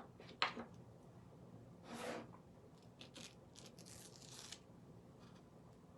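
Adhesive mesh stencil being peeled off a painted wooden surface: faint crackly peeling and rasping in short bursts, with a sharp click about half a second in.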